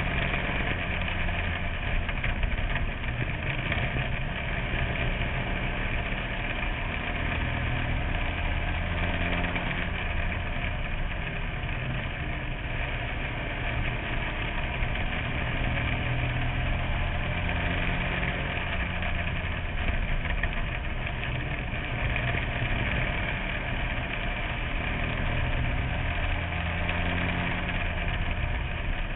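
Bandolero race car's engine running hard, heard from inside the car, its sound swelling and easing in a repeating cycle every several seconds as the car laps the oval, with constant rattle and vibration.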